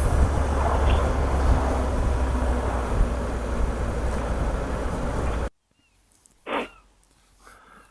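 Wind and road noise of a motorcycle ride picked up by a helmet microphone, with a low engine drone underneath. About five and a half seconds in it cuts off abruptly to a much quieter background with a short faint sound.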